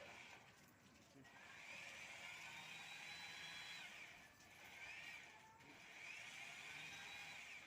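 Faint whine of an electric drill spinning a bottle brush that scrubs a glass, the pitch rising and falling in swells every couple of seconds.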